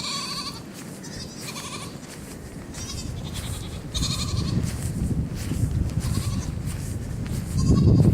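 Goats bleating, about six short wavering calls one after another. A low rushing noise builds in the second half.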